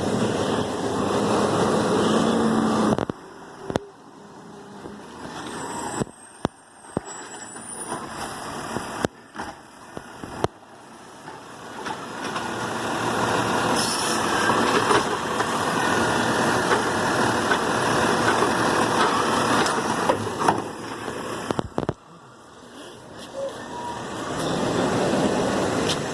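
Garbage truck at work: loud engine and machinery noise that builds and cuts off suddenly twice, with a run of sharp clicks and knocks in the quieter stretch between.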